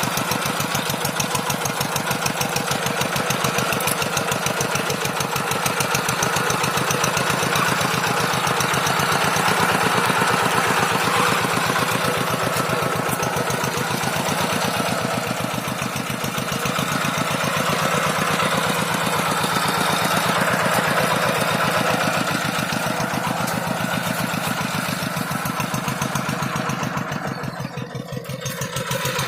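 A rice-paddy tractor's diesel engine runs steadily with a fast, even knocking beat. It drops briefly quieter near the end.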